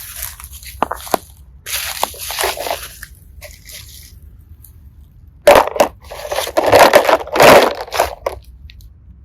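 Slime with small heart and seashell pieces mixed in being squeezed and worked by hand, crunching and crackling in irregular bursts that are loudest a little past halfway.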